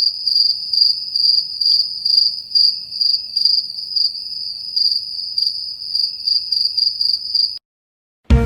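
Cricket chirping sound effect: a high, steady trill pulsing in chirps about two or three times a second, cutting off suddenly about a second before the end. Music starts right at the end.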